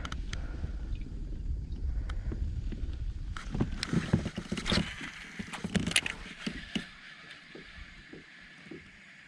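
Pedalcraft 10 pedal kayak moving on the water, with a low rumble and scattered knocks and clicks. After about six seconds it goes quieter, leaving faint regular ticks about twice a second.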